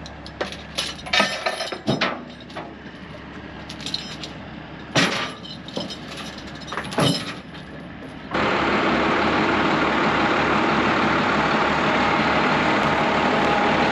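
A series of sharp metallic clanks and knocks, several of them loud. Then from about eight seconds in, a large vehicle engine runs loud and steady with an even low throb.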